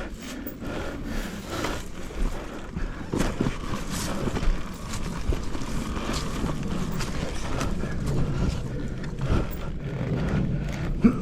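Dirt bike engine running at low revs while riding rough ground, with scattered knocks from the bike over the terrain.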